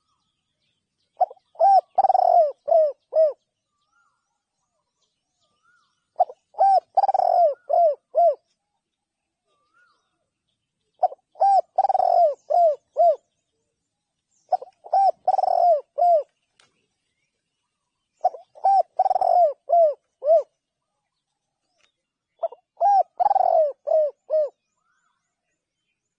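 Spotted dove cooing: six calling phrases, each a quick run of five or six hooting coos, repeated every four to five seconds with pauses between.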